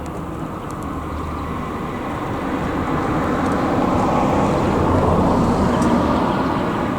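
A vehicle passing by: a rushing noise that swells to its loudest about five seconds in, then fades.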